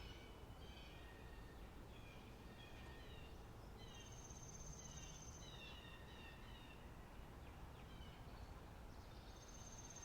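Faint spring meadow birdsong: several birds chirping in short, quick notes, with a high, thin trill about a second long twice, around four seconds in and again near the end.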